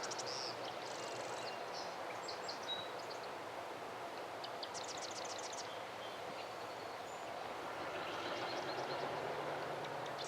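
Small birds singing at intervals: several short, high, rapid trills and buzzy notes over a steady background hiss.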